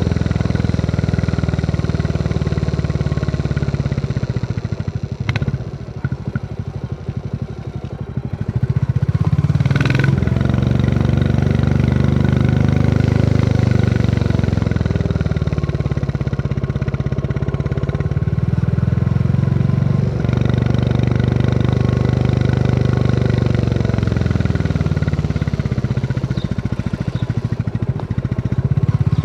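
Royal Enfield Classic 350's single-cylinder engine thumping under way. The throttle eases off and the sound drops for a few seconds about five seconds in, then the bike pulls again with revs rising and falling. Sharp clicks come about five and ten seconds in.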